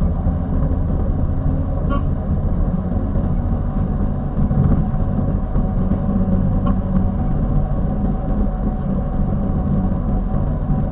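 Heavy vehicle's engine running steadily under load at speed, a continuous low drone with road noise, heard from the driver's seat.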